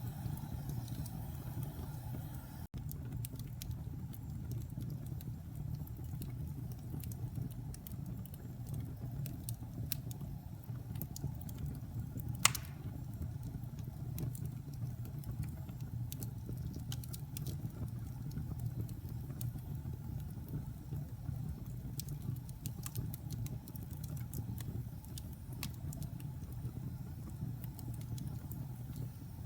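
Wood fire crackling: scattered small crackles over a steady low rumble, with one sharp, loud pop about halfway through.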